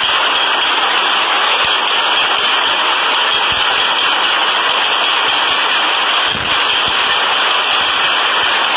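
Subway train running, a loud, steady rushing noise from wheels and rails with no break.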